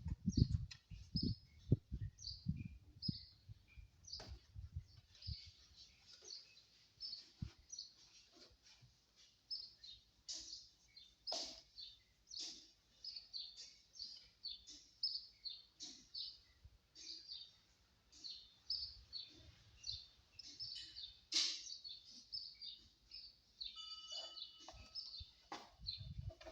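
Small birds chirping over and over, with a few dull knocks and handling thumps in the first few seconds.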